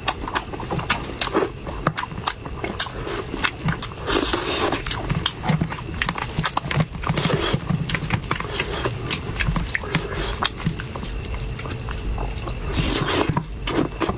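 Close-miked eating sounds: a person biting and chewing a big mouthful of food, with many sharp mouth clicks and smacks.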